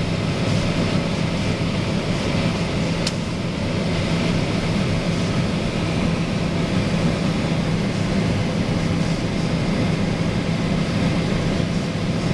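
Combine harvester running steadily while harvesting corn, a constant low engine drone with a hiss over it. A short sharp click about three seconds in.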